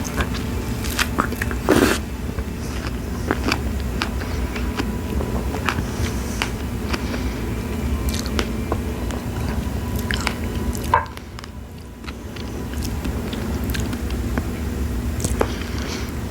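Close-miked biting and chewing of fresh strawberries, with wet mouth clicks and small snaps scattered through, over a steady low background hum that dips briefly about eleven seconds in.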